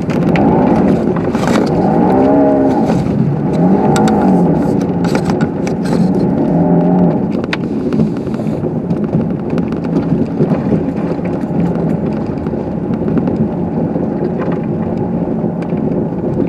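Car engine revving up and down several times as the car drives along a snow-covered street, then running more evenly. Scattered sharp knocks and scrapes are heard during the first half.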